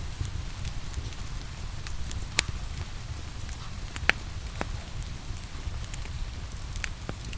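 Wood fire crackling, with scattered sharp pops, the loudest about two and a half and four seconds in, over a steady hiss of falling rain and a low rumble.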